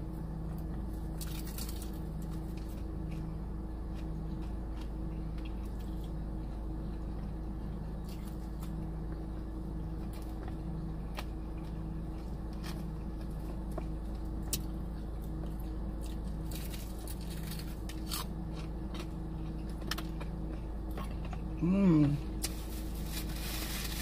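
Close-up eating sounds of someone chewing fried ranch chicken wings, with scattered mouth clicks and smacks, over a steady low hum. A brief hummed 'mm' comes near the end.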